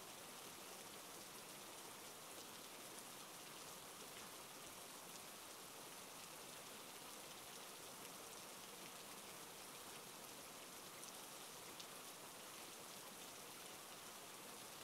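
Rain falling steadily: a faint, even hiss with a few light drop ticks scattered through it.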